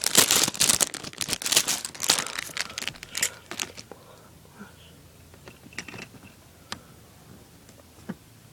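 Lego set packaging crinkling and rustling as it is handled, dense for the first few seconds, then a few faint clicks.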